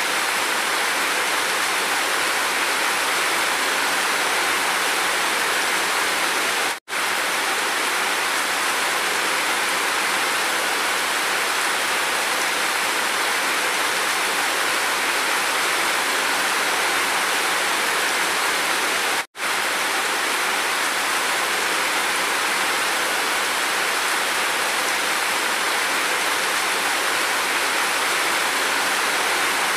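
Steady heavy rain. The sound cuts out for a split second twice, about seven and nineteen seconds in.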